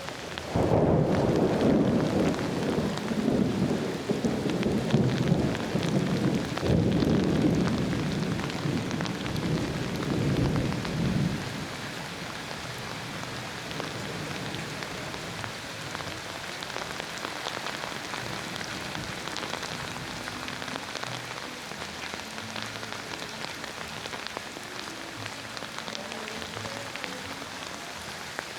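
A thunderclap breaks suddenly about half a second in and rumbles on in several rolling waves for about eleven seconds over steady rain. Once the thunder dies away, only the even hiss of rain falling on the ground is left.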